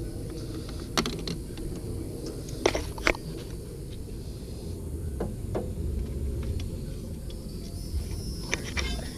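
Scattered sharp metallic clicks and clinks of hand tools and sockets working on bolts under the hood, about six in all, over a steady low rumble.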